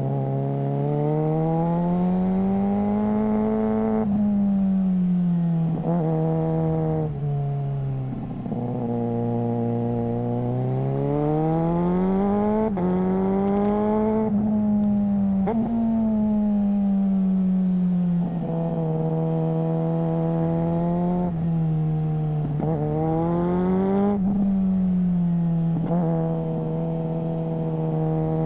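Suzuki GSR600's 599 cc inline-four running through a GPR Ghost exhaust under way, revs climbing and falling over and over, with short sharp breaks at the gear changes: quickshifter upshifts.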